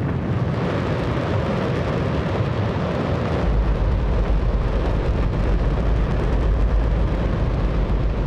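Hydrogen-oxygen rocket engine test-firing on a test stand: a loud, steady roar, its deep rumble growing stronger about three and a half seconds in.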